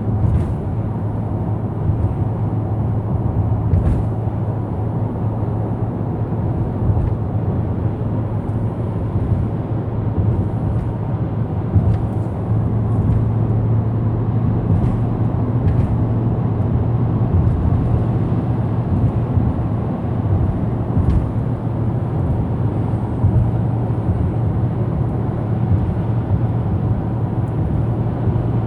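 Steady road and engine noise inside a moving car's cabin: a low, even hum with tyre rumble underneath.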